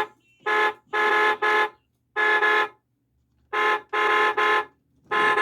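A Road Rippers toy truck's electronic horn sound effect plays through its small speaker: about eight short honks in a rhythmic pattern of pairs and triplets.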